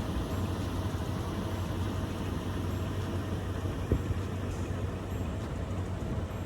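A vehicle engine running steadily with a low drone. There is a single sharp knock about four seconds in.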